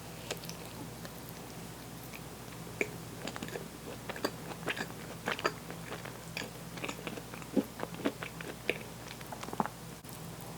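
Close-miked biting and chewing of food, a run of short, crisp clicky crunches starting about three seconds in, over a faint steady low hum.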